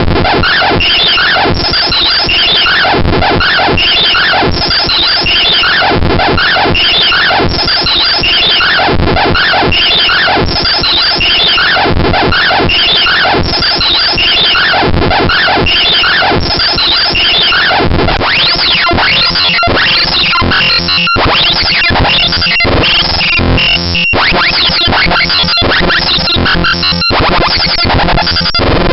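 Loud, harsh bytebeat audio from a GDI malware payload: glitchy, repeating synthesized tones and noise. About 18 seconds in it switches to a different pattern, with brief cutouts roughly every three seconds.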